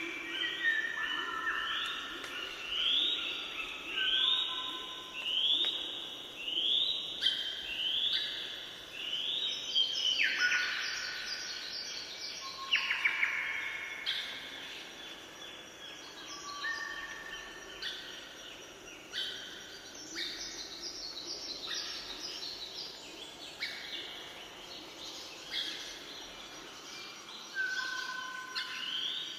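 Several birds singing and calling together, one repeating a short upward-sweeping whistle about once a second, with other chirps and whistles overlapping it.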